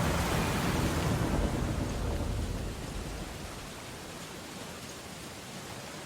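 A stormy ocean wave breaking and washing out, loudest in the first two seconds with a deep rumble, then fading into a steady hiss of rain and surf.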